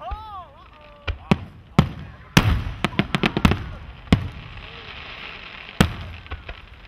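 Aerial fireworks shells bursting: a series of sharp bangs, with a rapid string of reports about three seconds in and a last loud bang near the end.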